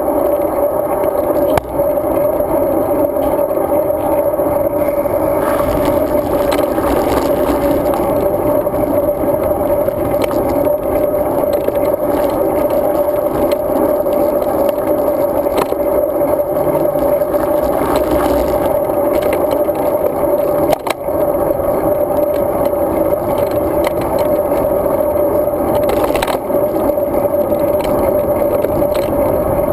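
Road bike riding along: a steady hum of tyre and road noise with rattling, picked up by a GoPro camera carried on the ride, and a few short knocks from bumps in the path.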